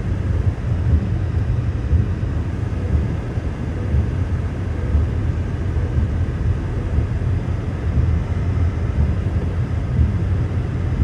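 Steady low rumble with an uneven flutter.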